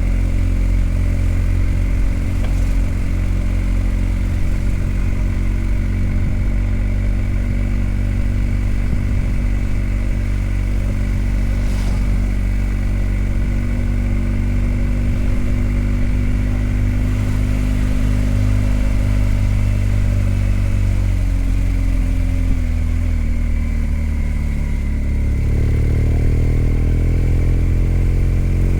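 BMW R1250GS Adventure's boxer-twin engine running under way at a steady speed. About three-quarters of the way in it drops in pitch as the rider eases off, then picks up and rises again near the end.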